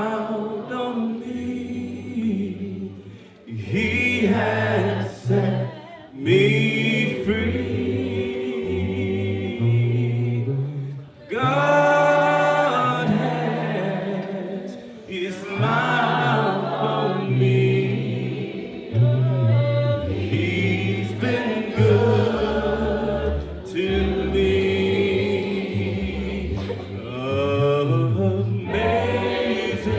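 Church congregation singing a hymn a cappella, several voices together in phrases a few seconds long, with no instruments.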